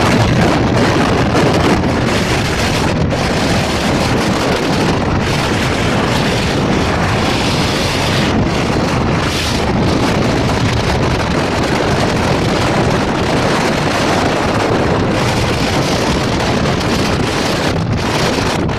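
Steady, loud wind rushing over the microphone on a moving motorbike, with the bike's road noise mixed in.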